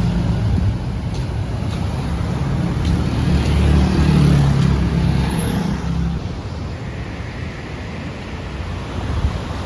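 Motor vehicle running on the road, a loud, uneven low rumble of engine and traffic noise that peaks about halfway through.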